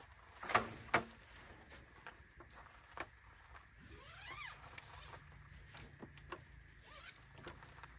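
Quiet outdoor ambience with a steady high insect drone, a few soft footsteps near the start, and a short call that rises and falls in pitch about halfway through.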